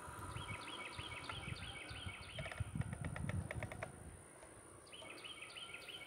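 A bird singing a rapid run of repeated falling chirps, about four or five a second, which stops and then starts again near the end. In between comes a short bout of clattering and rumbling, the loudest part.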